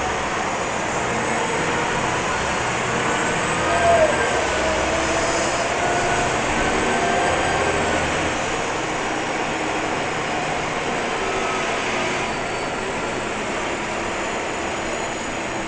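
Scania L94-UB city bus running: a steady, noisy engine sound with faint whines that glide up and down, and a brief louder sound about four seconds in.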